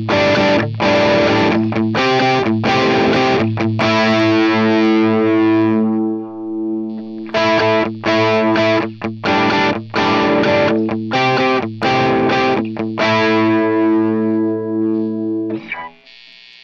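Distorted electric guitar through a NUX MG-30's Marshall JCM 800 amp model, with the volume turned down to about half: short rhythmic chord strikes, twice broken by a chord left to ring out, stopping about a second before the end.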